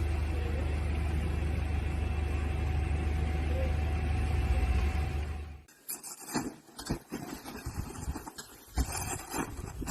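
A vehicle's steady low rumble that cuts off abruptly about five and a half seconds in, followed by irregular crunching clicks and knocks.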